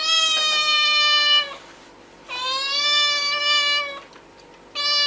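Domestic cat giving long, drawn-out meows, one after another: two long ones, then a third starting near the end.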